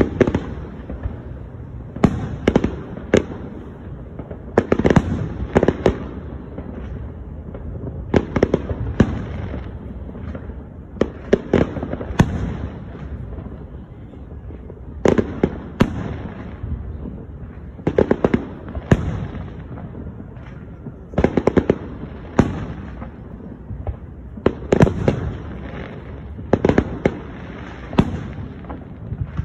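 Aerial fireworks shells bursting overhead: clusters of sharp bangs every two or three seconds, with a low rumble between them.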